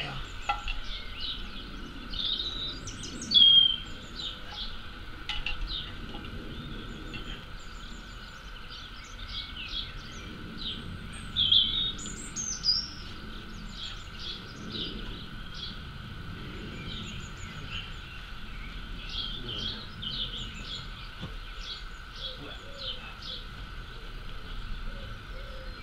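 Small garden birds chirping and singing, with short bright calls throughout and the loudest calls about three and a half and eleven and a half seconds in, over a faint steady background hum.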